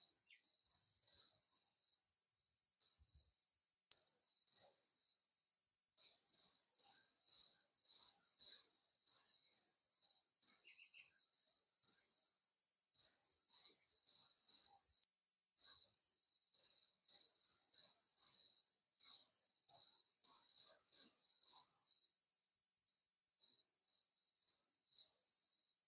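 Crickets chirping at one high pitch, a few chirps a second, softer for a few seconds early on and pausing briefly a couple of times.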